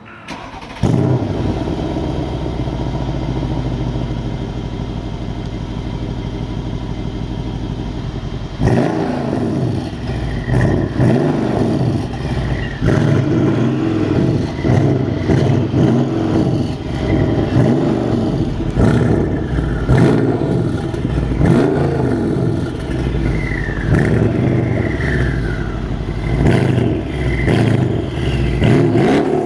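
Mercedes CLS63 AMG V8 exhaust: the engine starts about a second in and idles steadily, then from about a third of the way through it is revved over and over, each rev rising and falling back.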